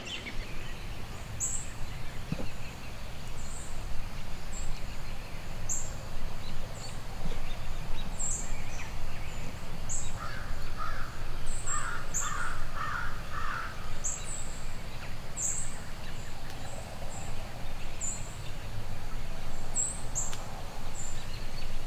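Birds calling: a run of about six harsh, crow-like caws about halfway through, over short high chirps repeating about once a second, with a low rumble underneath.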